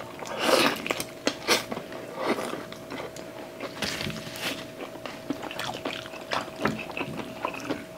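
Close-miked eating sounds from two people eating chicken and rice by hand: wet chewing, lip smacks and irregular small clicks. A faint steady tone at one pitch runs underneath.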